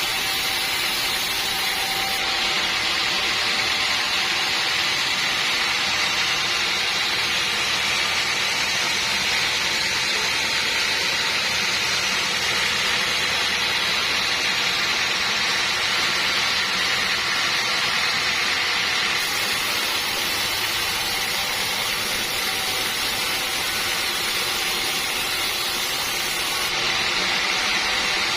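Sawmill saw running steadily: a constant, unbroken hiss with a faint steady hum underneath.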